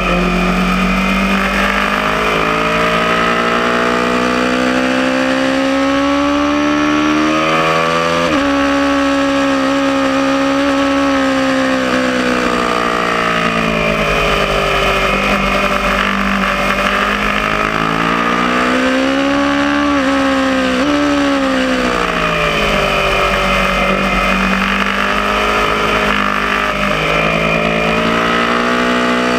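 Aprilia Tuono motorcycle engine under hard riding on a race track, its pitch repeatedly climbing under acceleration and falling off as it slows, with a few sudden pitch steps at gear changes, over a steady rush of wind noise.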